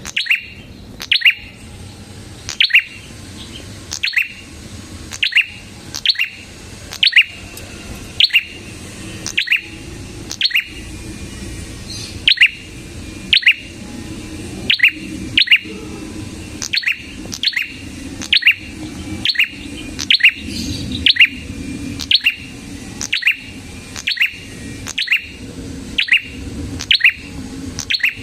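Prenjak (prinia) calling persistently: sharp, repeated chirps, often in quick pairs, coming one or two a second without a break.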